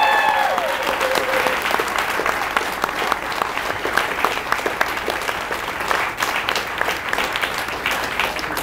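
Crowd clapping, with a few cheers trailing off in the first moment, the applause slowly fading toward the end.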